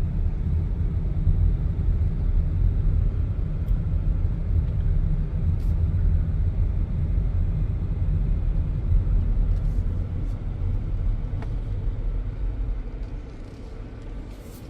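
Car cabin noise while driving: a steady low rumble of engine and tyres on the road, growing quieter near the end.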